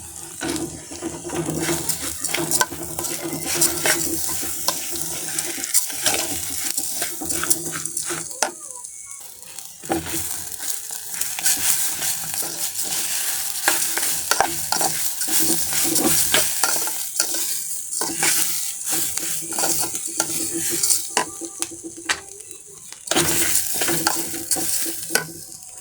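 Rice sizzling as it is sautéed in hot oil in a pot, stirred with a spoon that clicks and scrapes against the pan.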